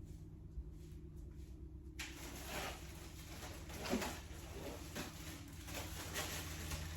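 Rustling and light knocks of shopping items being handled and pulled out of bags, starting about two seconds in, over a low steady hum.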